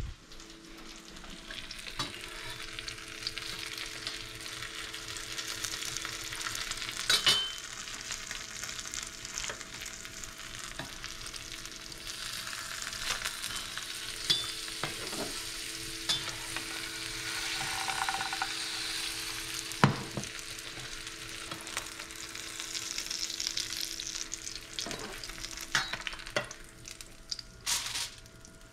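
A grilled cheese sandwich sizzling steadily as it fries in butter in a nonstick pan. Now and then there are sharp clicks and scrapes of a metal offset spatula against the pan.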